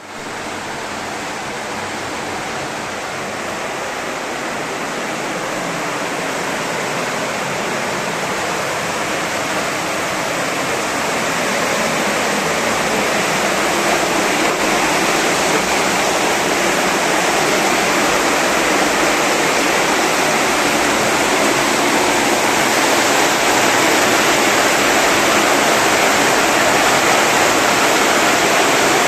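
Steady rushing of water that grows gradually louder.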